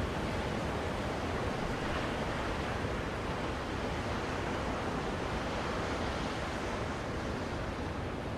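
Ocean waves washing on a shore, a steady rush of surf used as white noise.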